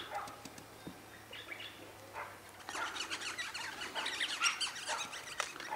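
Several small birds chirping, quiet at first, then a rapid run of short, high chirps from about halfway in.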